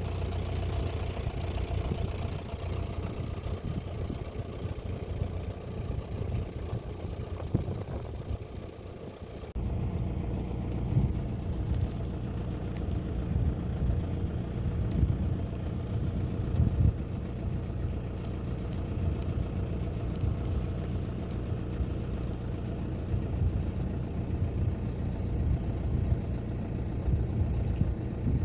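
Safari vehicle's engine running as it drives, a steady low rumble with some rattle. About ten seconds in the rumble steps up suddenly and stays louder.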